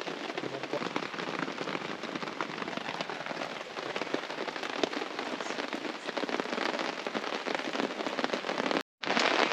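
Steady rain pattering on a camping tarp: a dense, even patter of fine drops, broken by a short gap near the end.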